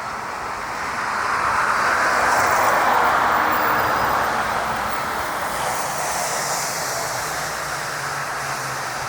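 Jet engine noise from a Boeing 737 MAX 8's CFM LEAP-1B turbofans: a loud, steady rush that swells to a peak about three seconds in, then eases to a steadier level.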